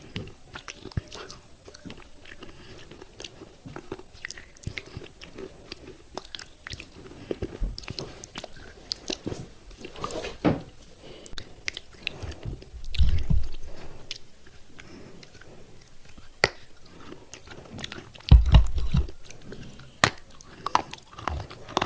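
Close-up crunching and chewing of thick broken clay pot pieces coated in red kaadhi paste: a run of sharp cracking bites and gritty chews. Two louder low thuds come a little past halfway and again near the end.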